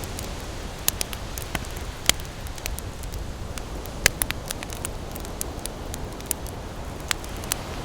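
Wood campfire crackling, with sharp irregular pops every fraction of a second, the loudest about a second, two seconds and four seconds in, over a steady low wash of ocean surf.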